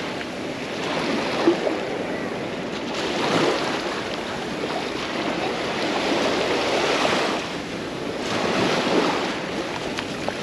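Small Mediterranean waves breaking and washing up the shore, the hiss swelling and fading every few seconds, with some wind on the microphone.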